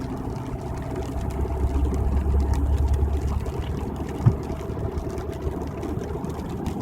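Steady road and engine rumble heard from inside a car cruising on the highway. The rumble swells for a couple of seconds around two to three seconds in, and there is one short knock about four seconds in.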